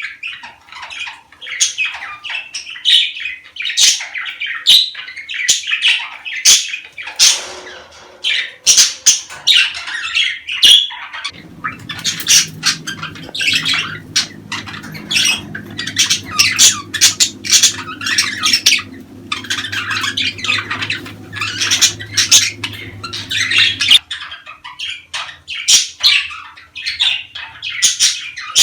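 A flock of budgerigars chattering nonstop with many quick chirps and sharp squawks: the lively flock chatter played to budgies to encourage them to breed. A low steady hum runs underneath through the middle stretch, starting a little before halfway and stopping near the end.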